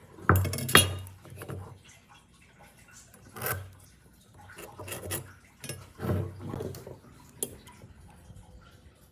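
A series of separate clattering knocks of hard objects being handled and set down: two close together at the start, then one every second or so.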